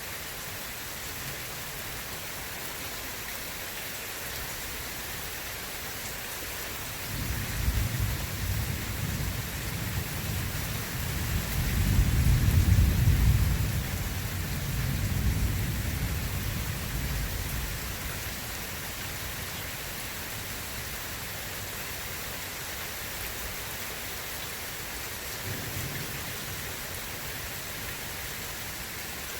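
Steady rain hissing with rolling thunder: a long low rumble builds from about seven seconds in, is loudest around twelve to thirteen seconds and fades out by about eighteen seconds, then a short fainter rumble near the end.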